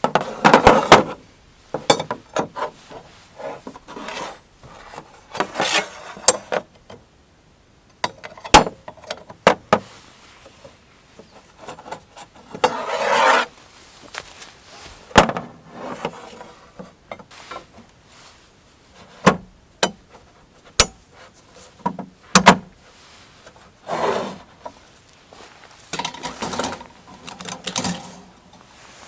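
Irregular rubbing and scraping of objects being handled, broken by sharp knocks and clicks.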